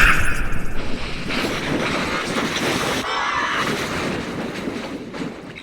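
A loud, heavily distorted noise from an effect-processed cartoon sound effect, strongest at the start and fading away over about five seconds.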